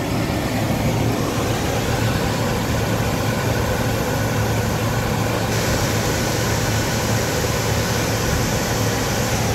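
Oil-burning garage stove running with its electric blower fan forcing air into the burner: a steady rushing with a low motor hum. The hiss gets a little brighter about halfway through.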